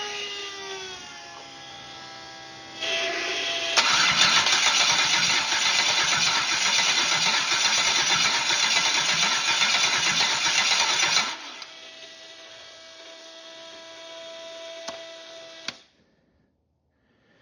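GM LS V8 engine turned over by its starter for about seven seconds without catching, with a steadier whine before and after the cranking that cuts off suddenly near the end. The engine fails to start; the owner finds it is out of fuel.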